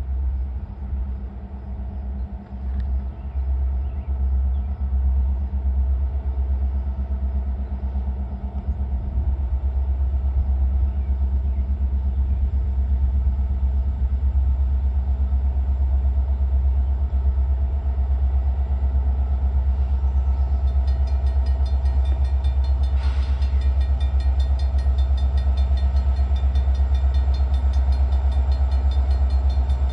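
Loaded ore freight train passing, with the rumble of its EMD SD70M-2 diesel locomotives and the cars rolling on the rails. The sound builds over the first ten seconds or so and then holds steady.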